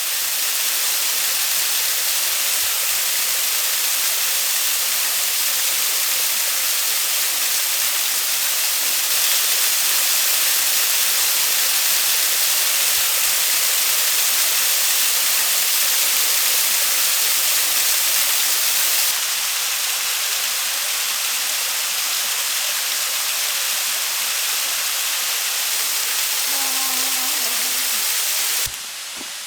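Waterfall, a loud steady rush of falling water with no let-up; its level shifts slightly twice and drops just before the end.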